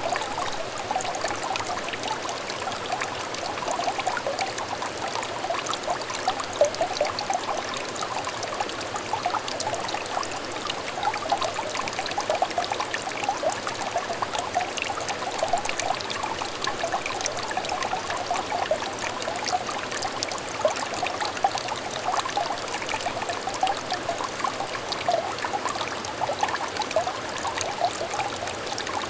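A small clear stream trickling and babbling steadily, with many quick little gurgling notes in the water.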